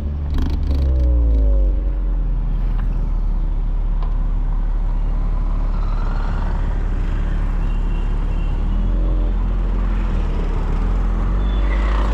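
Volkswagen Polo GTI's 1.8 TSI turbocharged four-cylinder engine and exhaust under way: the engine note rises in pitch briefly in the first couple of seconds, settles into a steady low drone with road noise, then climbs and falls again about three-quarters through.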